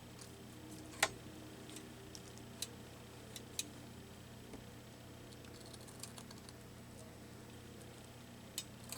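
A few scattered light clicks and taps from craft materials being handled on a work table, the sharpest about a second in, over a faint steady hum.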